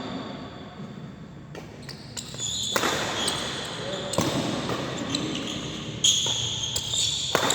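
Badminton rally: several sharp racket hits on the shuttlecock, with crowd noise in the hall growing louder about three seconds in.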